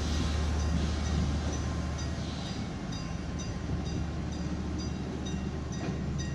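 Chinese-built diesel locomotive of a local passenger train running with a steady low engine drone, with faint, short high ticks at an even rhythm over it.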